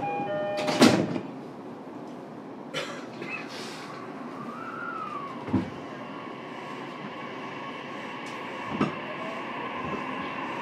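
Inside an E233 series electric commuter train at a station stop: the sliding doors shut with a loud thud about a second in. From about halfway, a steady whine from the VVVF inverter sets in as the train pulls away, with two sharp knocks from the car.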